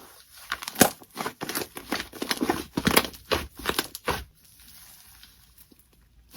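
Slime being squeezed and pressed by hand, giving a quick run of crackles and pops that thins out about four seconds in.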